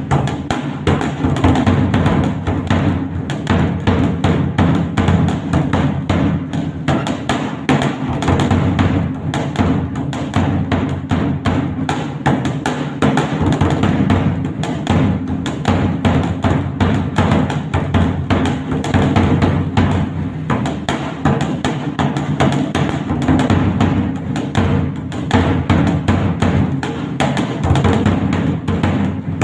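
Dhak, a large two-headed barrel drum beaten with sticks, played in a fast, unbroken rhythm of dense strokes.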